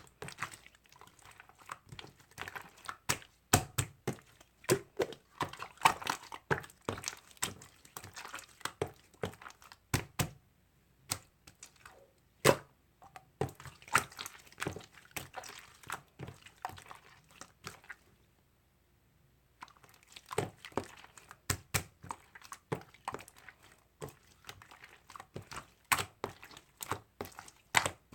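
Slime being squeezed, stretched and poked by hand, making irregular crackling clicks, pops and wet squishes, with a short pause about two-thirds of the way through.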